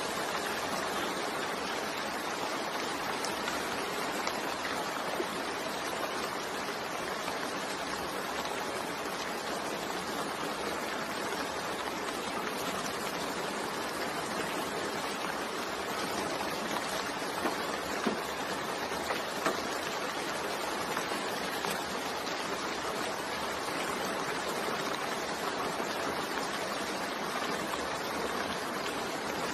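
Steady rain falling, an even hiss with a few louder drop ticks a little past halfway.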